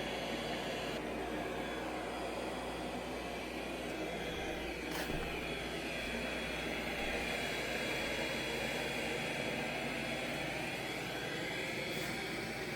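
Ecovacs X9 robot vacuum running on carpet, a steady whir of its suction fan and brushes that shifts slightly in pitch as it moves, with one short click about five seconds in.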